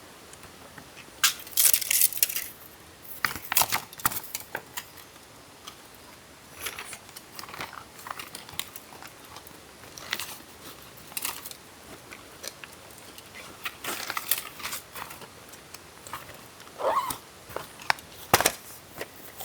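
Camping gear being handled and packed away: irregular rustling, crinkling and small clinks and rattles, louder in brief bursts about two seconds in, around four seconds, and near the end.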